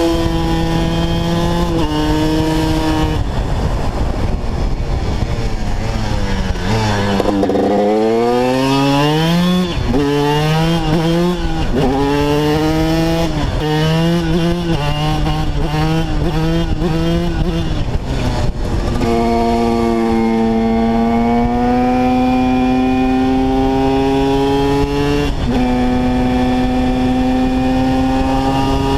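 TM 125 supermotard's two-stroke single-cylinder engine revving hard. The engine note drops steeply and climbs back about seven seconds in, then rises and falls about once a second, then holds at high revs with a step in pitch near the end.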